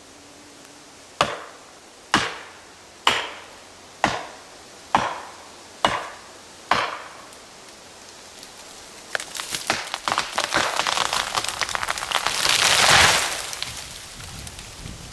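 Seven sharp blows, about one a second, as a felling wedge is driven into the saw cut. Then, from about nine seconds in, the tree's wood crackles and splinters as it gives way, building to a loud rushing crash near the end that fades out.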